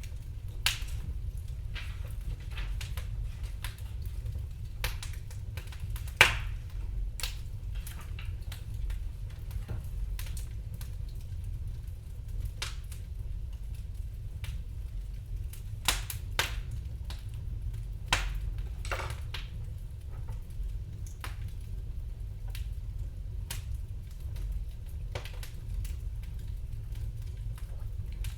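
Wood fire in a fireplace crackling, with irregular sharp pops, the loudest about six seconds in, over a low steady rumble.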